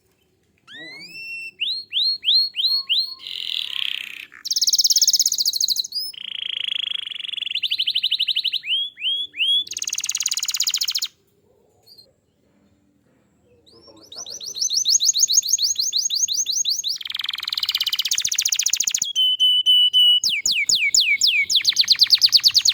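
Domestic canary singing its full song: fast runs of one repeated sweeping note, switching every second or two to a new note, with a break of about two and a half seconds midway.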